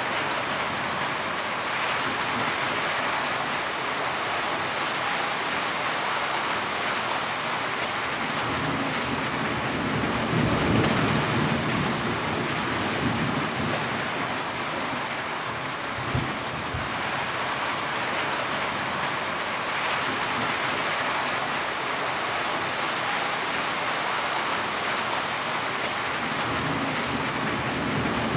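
Heavy rain falling steadily on surfaces, with a low rumble swelling about ten seconds in and a shorter one a few seconds later.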